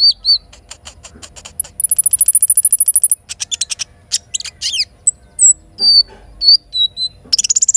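Songbirds singing: repeated sharp high chirps and short whistles at several pitches, with a rapid high trill from about two seconds in lasting a second and a half, and a burst of loud rising chirps near the end.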